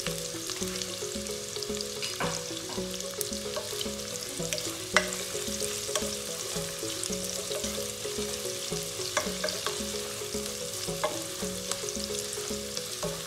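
Chopped onion and garlic sizzling in hot oil in a nonstick pot, stirred with a spatula that clicks and scrapes against the pan, with one sharper knock about five seconds in.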